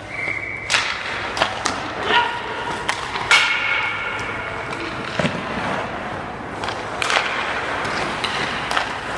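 Scattered sharp knocks and thuds, with short high squeaks about 0.1 s in and again about 3.3 s in, over a steady background din in a large echoing room.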